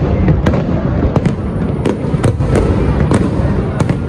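Fireworks going off in quick, irregular succession: about nine sharp bangs and cracks over a continuous low rumble of further bursts.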